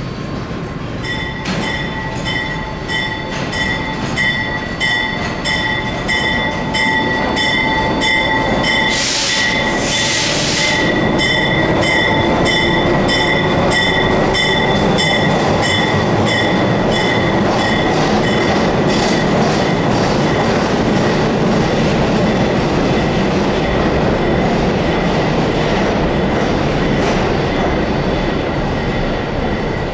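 A diesel locomotive hauling a train of R188 subway cars past. The rumble of the train grows over the first ten seconds and then holds steady. For the first half a high, evenly pulsing ring sounds over the wheels, and a short hiss comes about nine seconds in.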